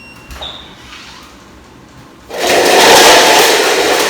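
A tower of stacked cups knocked over, crashing down in a loud clatter of many cups tumbling, starting suddenly a little past halfway.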